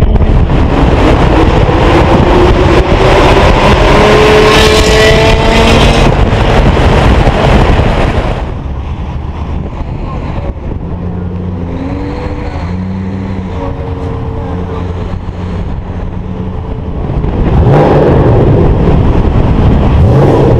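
BMW E60 M5's V10 engine through a Kreissieg valved exhaust, revving loudly with rising pitch as the car accelerates. About eight seconds in it drops to a quieter, steadier sound, then comes back loud for the last few seconds.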